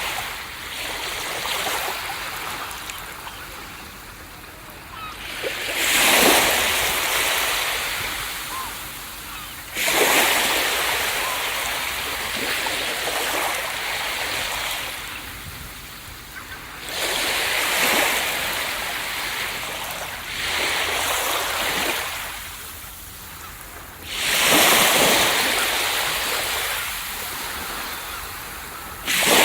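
Ocean waves breaking on a beach: about five waves crash in turn, each one a sudden surge of surf that fades into a long wash of water before the next.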